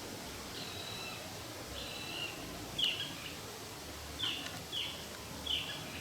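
A bird calling: six short, high notes spaced roughly a second apart, over a steady background hiss.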